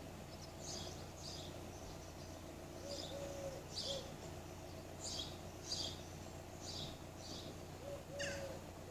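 A bird chirping: short high calls, mostly in pairs, repeating about every second or so, over a low steady hum.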